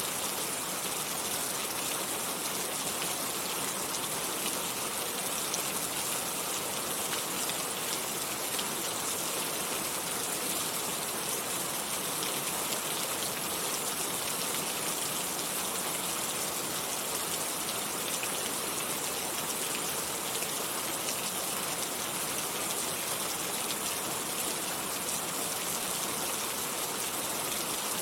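Steady rain falling: an even hiss of many drops that stays constant throughout.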